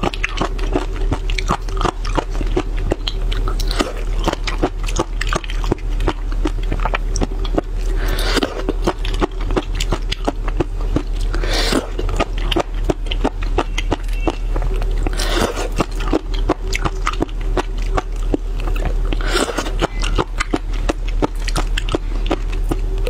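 Close-miked chewing of mud snails, their thin shells cracking between the teeth in a dense run of small clicks, with a louder, noisier swell every three to four seconds.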